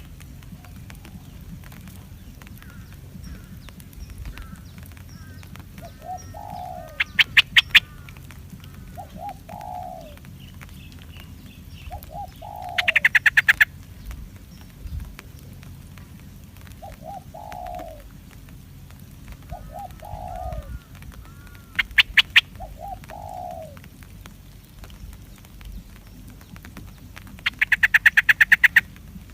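Wild birds calling: short low falling coo-like notes in twos and threes repeat every few seconds, and four times a loud burst of rapid shrill chattering breaks in, about a second or so each.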